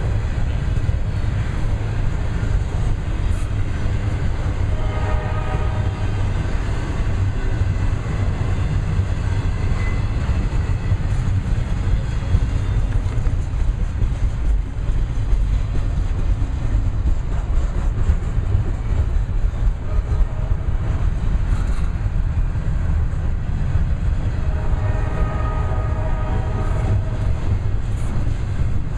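Freight train running past with a steady heavy rumble, its horn sounding twice, once a few seconds in and again near the end.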